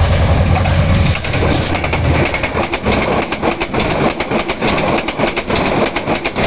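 Express passenger train passing at speed: a deep rumble in the first second, then fast clickety-clack of wheels over rail joints. The sound cuts off abruptly at the end.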